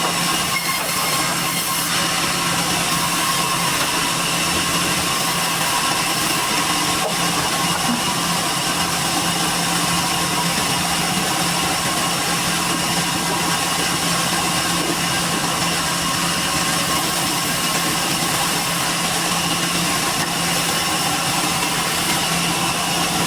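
Sawmill machinery running steadily, a constant mechanical drone with a few steady tones.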